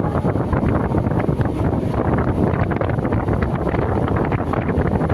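Moving electric local train: a steady rumble with fast, constant rattling and clicking, and wind buffeting the microphone.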